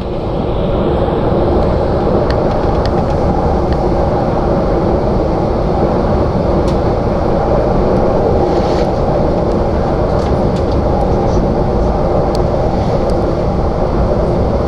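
Passenger train running steadily, heard from inside the carriage: a constant rumble of wheels and running gear, with a few faint clicks here and there.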